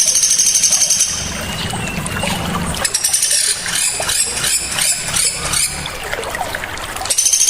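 Small birds' sharp, high, rapid trills and chirps over a steady trickle of running water. A dense trill at the start breaks off after about a second, varied chirping notes follow in the middle, and the dense trill returns near the end.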